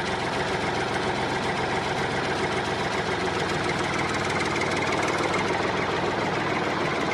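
An engine idling steadily, like a tractor's diesel engine ticking over, with an even mechanical hum that grows very slightly louder.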